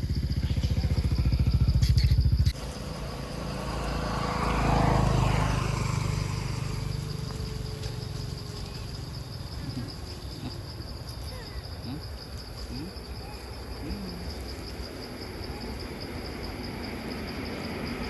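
A motor running close by that cuts off abruptly about two and a half seconds in; then a vehicle goes past, loudest about five seconds in, and fades away.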